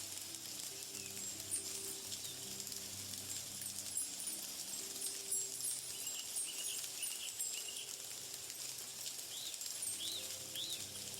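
Outdoor nature ambience: a steady high, insect-like hiss with fine ticking, and a few short bird chirps near the end. Faint held low tones run underneath.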